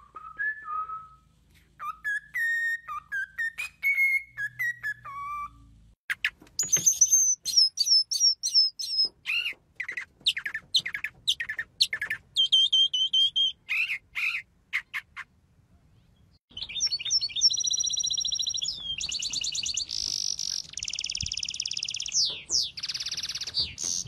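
A cockatiel whistling a short tune of clear notes, then a mockingbird singing a run of quick, varied chirps and whistles. From about sixteen seconds in, a small songbird's loud, continuous trilling song.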